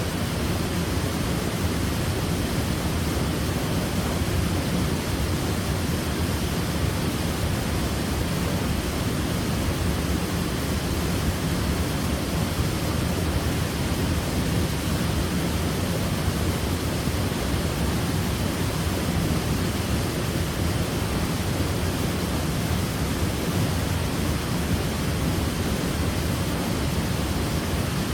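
Waterfall: water falling and splashing in a steady, unbroken rush, heaviest in the low end, with no changes.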